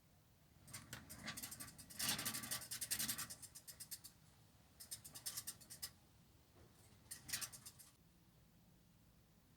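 Scratching and rubbing handling noise in three bursts of rapid clicks, the longest and loudest about two to three seconds in.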